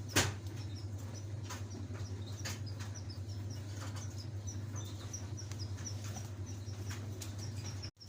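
Canary giving a run of short, faint, high chirps, a few a second, over a steady low hum. A sharp click comes just after the start, with scattered light clicks later.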